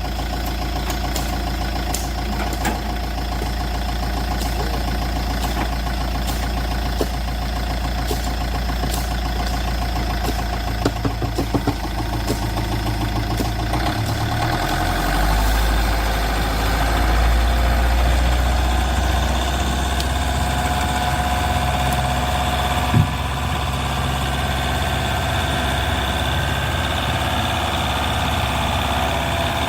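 A small engine running steadily with a low hum. Its note shifts about halfway through and rises slightly for a few seconds. A few light clicks come around the middle, and one sharp knock near the end.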